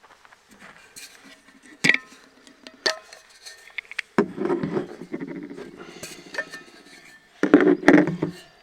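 Clinks, knocks and rattling of a French press coffee mug and other coffee gear being handled: sharp clicks about two and three seconds in, then rougher rubbing and clatter from about four seconds, loudest near the end.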